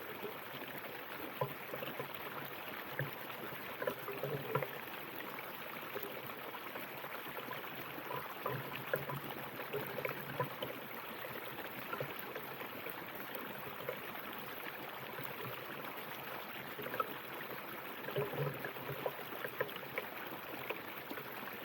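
River water flowing over rocks, a steady rush with frequent small gurgles and splashes.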